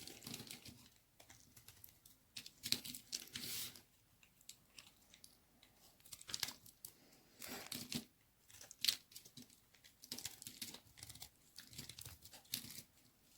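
A knife cutting dry white baby soap: a string of irregular scraping, crackling strokes, some short and some drawn out for about a second, as the blade shaves and breaks the bar.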